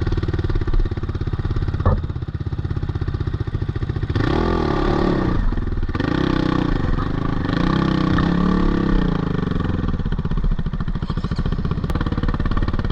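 GPX 450 four-stroke dirt bike engine running under the rider on trail, revved up and down several times from about four seconds in, then settling to a steadier note.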